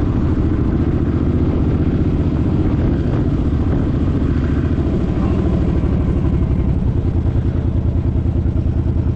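Suzuki Boulevard M50's 805 cc V-twin engine running, settling into a slower, pulsing beat from about seven seconds in.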